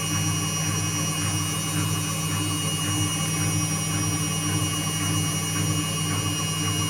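Indesit WIU81 front-loading washing machine running mid-cycle on its quick 30 °C programme: a steady motor hum with a faint high whine, at an even level throughout.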